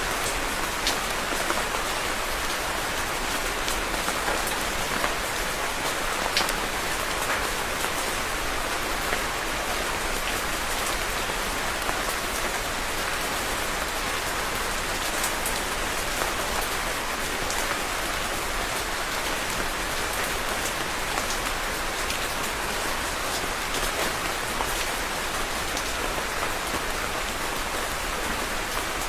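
Steady rain falling on a hard surface, a continuous patter with scattered individual drop ticks.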